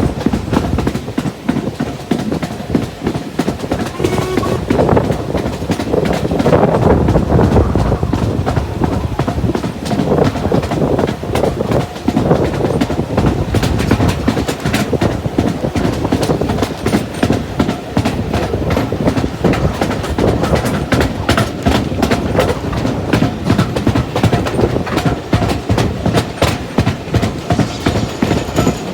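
Heritage passenger train running along the line, a steady rumble with wheels clicking over the rail joints, the clicks coming thicker in the second half.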